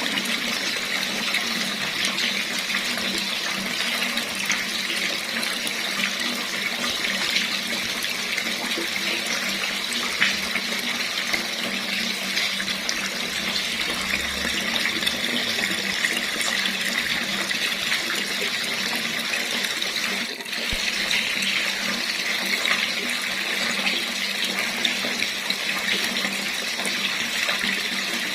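Water running steadily from a tap in a continuous stream, with a brief dip about two-thirds of the way through.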